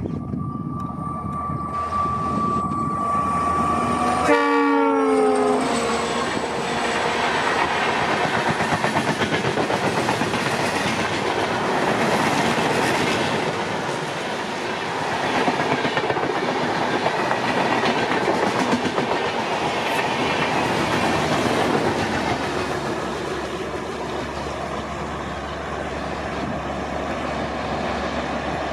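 WDP4D diesel locomotive passing close by and sounding its horn about four seconds in, the horn dropping in pitch as it goes past. The LHB coaches then roll by with a steady clatter of wheels over the rail joints.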